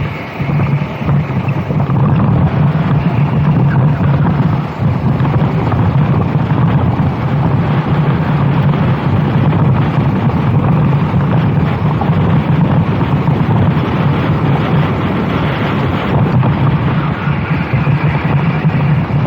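Racing kart engine running hard at speed, heard onboard, with wind buffeting the microphone; the engine note dips briefly near the start and again about five seconds in.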